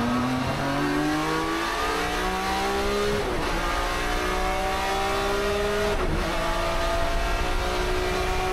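1993 BMW M3 E36 GTR race car's inline-six engine accelerating hard through the gears, its pitch climbing steadily. Two upshifts, about three seconds and six seconds in, each briefly drop the note before it climbs again.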